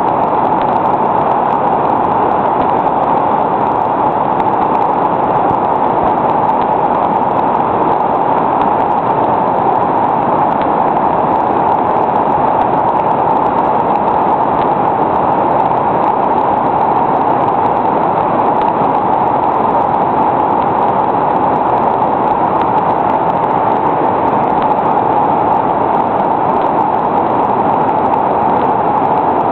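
Whitewater rapid on a river: a steady, loud rush of churning water.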